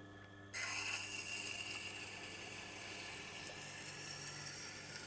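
A knife edge is pressed onto a Tormek's turning, water-cooled SG-250 grinding stone, freshly dressed to about 320 grit. About half a second in, a steady wet grinding hiss sets in over the low hum of the motor, with a few faint crunches left from the stone's raised grains.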